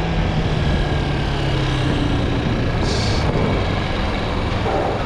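Chinese 250 cc dirt bike engine running, its note stepping down about two seconds in.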